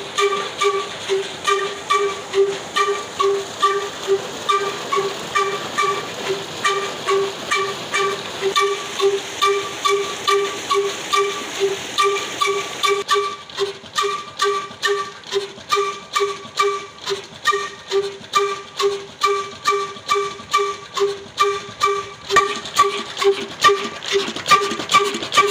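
A 22 HP old black single-cylinder diesel engine driving a tube-well turbine pump runs steadily under load, its exhaust beating in even, ringing pulses about two times a second.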